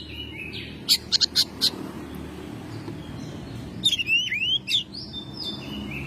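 Oriental magpie-robin singing: a quick run of four or five sharp, harsh chip notes about a second in, then after a short lull a phrase of clear whistled notes that sweep up and down.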